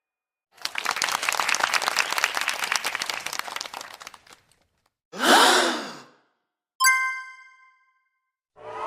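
A run of separate stock sound effects: a crackling, rattling noise of many quick clicks lasting about four seconds, then a short whoosh-like sound falling in pitch, then a single bright bell-like ding that rings for about a second.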